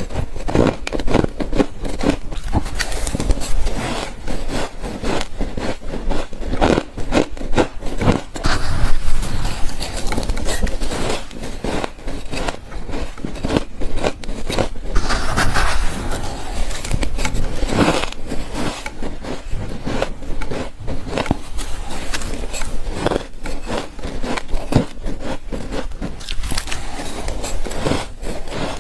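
Freezer frost taken in spoonfuls and crunched, close up: a dense, irregular run of crackling crunches and scrapes.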